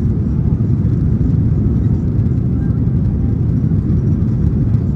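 Steady low cabin rumble of a Boeing 737-900ER's CFM56-7B engines and airflow.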